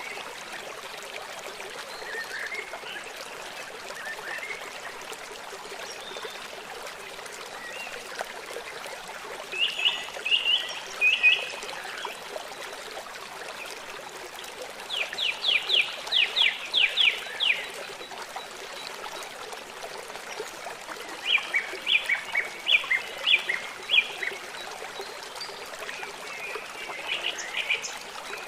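Songbirds singing in short phrases over the steady rush of a trickling stream. The loudest phrase, about halfway through, is a fast run of about a dozen sharp, high repeated notes.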